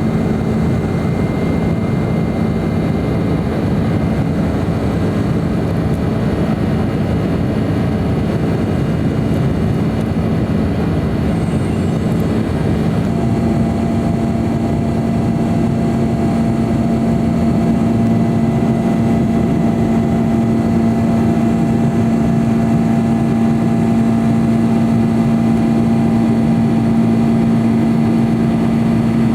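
Cabin noise of a McDonnell Douglas MD-11 trijet in flight: a steady rush of jet engine and airflow noise with a constant low hum. About 13 seconds in, the engine hum grows stronger and a second, higher steady tone joins it, as the engine setting changes.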